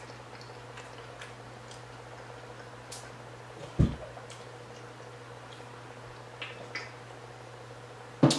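Quiet close-mouthed chewing: a few soft, wet mouth clicks and smacks over a steady low hum. There is a short low vocal sound about four seconds in and a brief louder one near the end.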